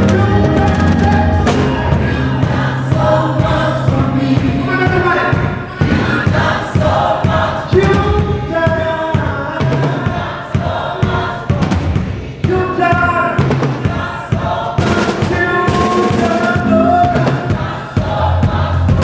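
Worship song: a group of voices singing together over a band, with a steady bass line and drum hits.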